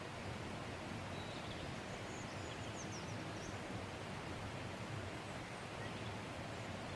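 Gas camping stove burner hissing steadily under a pot of water heating towards the boil, with a few faint bird chirps about two to three seconds in.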